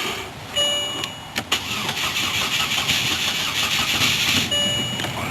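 Cold start of a 2005 Chevrolet Malibu that has sat unused for a while. A dash warning chime sounds, then a click, and the starter cranks for about three seconds before the engine catches and settles to an idle. The chime sounds again near the end.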